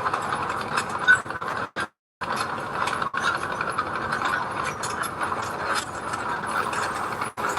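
Mini bulldozer working, its steel tracks giving a dense metallic clanking and rattling over the engine. The sound drops out briefly about two seconds in and again near the end.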